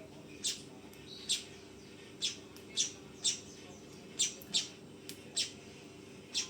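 Manyar (weaver bird) giving short, sharp chirps over and over, about one every half second to a second, each a quick high note falling in pitch, over a faint steady hum.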